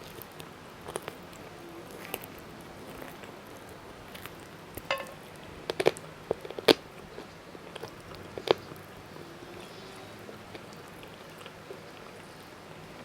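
Close-miked eating: chewing with scattered sharp crunches and wet mouth clicks, a cluster of the loudest ones in the middle.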